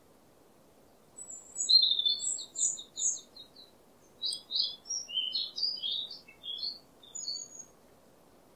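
A small bird chirping in two quick phrases: a rapid run of short high notes starting about a second in, then after a brief pause a jumbled string of chirps that stops near the end.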